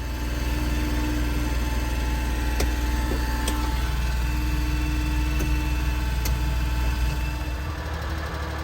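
1993 Suzuki Carry mini truck's small three-cylinder engine running steadily, a constant low hum.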